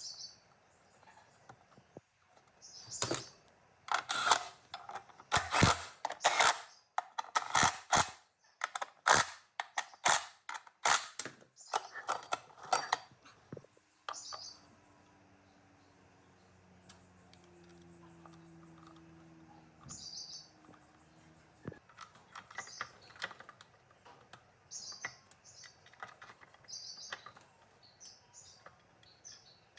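A run of sharp knocks and clatters for about ten seconds, like hard parts being handled or tapped. Short, high bird chirps repeat throughout, most often near the end.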